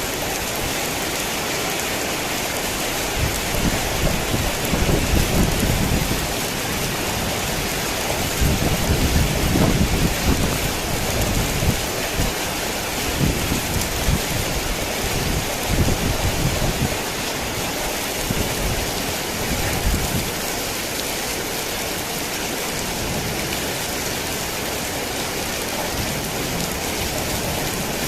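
Heavy rain falling steadily, with thunder rumbling in several low swells from a few seconds in until about two-thirds of the way through.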